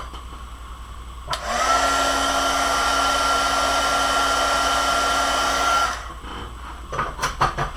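Handheld crafting heat tool (hot-air gun) clicks on about a second and a half in. It blows steadily with a high whine that rises as the motor spins up, then cuts off after about four and a half seconds. A few light clicks and taps of handling follow near the end.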